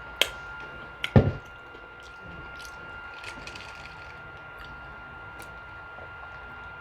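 Close-miked mouth and eating sounds: a sharp click, then a heavier thump about a second in, followed by soft wet chewing and small scattered clicks. A faint steady high tone runs underneath.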